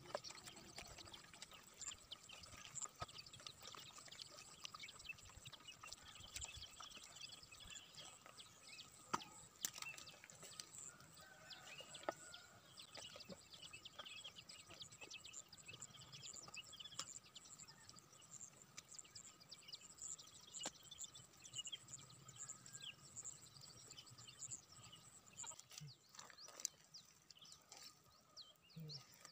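Faint outdoor ambience of many small bird chirps over a steady thin high tone, with occasional soft clicks and squelches of wet mud being scooped by hand.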